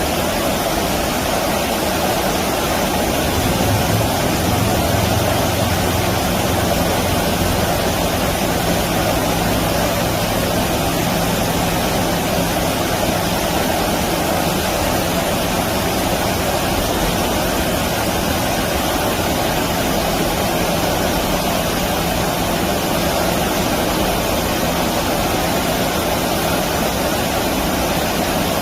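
Steady rushing of stream water. A low engine-like drone sounds under it from a few seconds in until past the middle, then fades.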